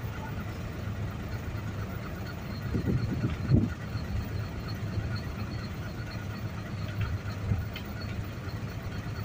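Truck engine running at low speed as the truck creeps forward, a steady low rumble with a louder thump about three and a half seconds in.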